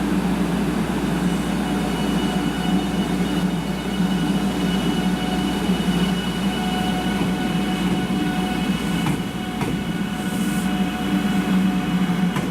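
500-series Shinkansen train giving off a steady electrical whine over a low hum, unchanging in pitch.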